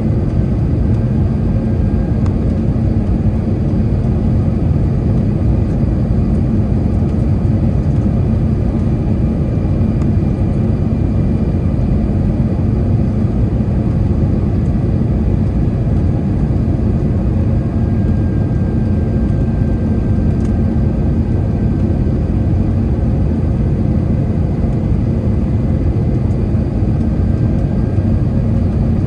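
Steady airliner cabin noise of an Airbus A321 in flight: a loud, even rumble of engines and airflow, with a faint high whine that comes and goes.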